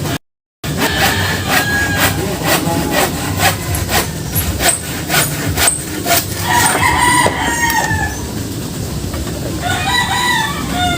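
A hammer driving nails into wood, sharp knocks about two a second, with a rooster crowing once partway through.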